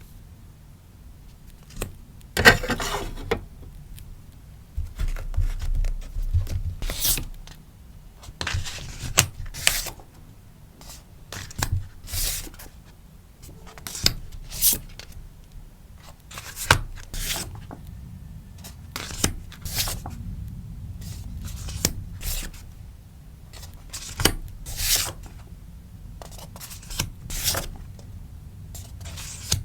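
Crinkly rustling and rubbing of sticker packaging being handled, in short irregular bursts every second or two.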